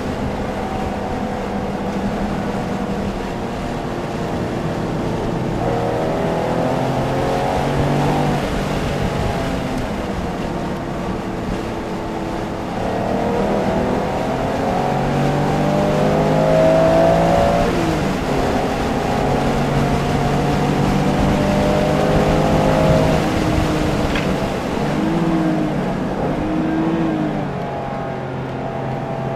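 Porsche engine heard from inside the car at speed on a race track, pulling hard with its pitch climbing through the revs, dropping at a gear change, then two quick throttle blips on downshifts near the end.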